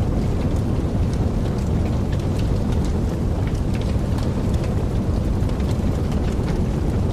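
Wood fire burning in a fireplace: a steady low rumble of flames with many small, irregular pops and crackles several times a second.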